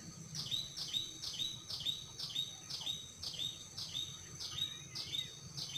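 A small bird calling one short, high note over and over, about two and a half times a second, over a steady high-pitched whine.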